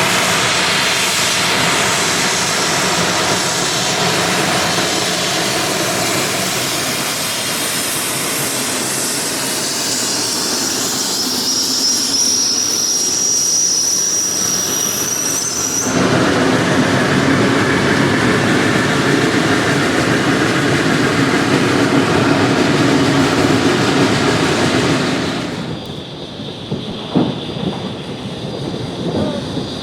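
Geared steam logging locomotive working past, with a dense chuffing and hissing noise and a steady high wheel squeal in the middle. The sound changes abruptly twice.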